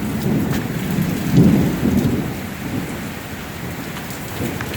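Heavy rain pouring down, with a low rumble under it that swells to its loudest about a second and a half in, then eases.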